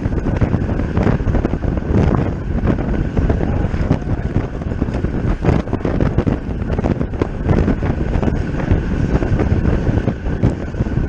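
Wind buffeting the microphone of a camera on a road bicycle ridden at race speed: a steady, fluttering rush of noise.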